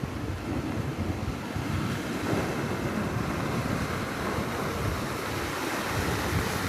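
Floodwater rushing steadily, a continuous wash of water noise.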